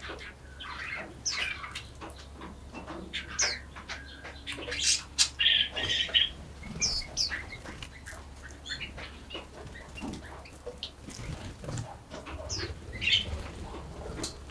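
Several forest songbirds chirping and singing at once: short high notes, many sliding downward, overlapping throughout, with a buzzier call about six seconds in.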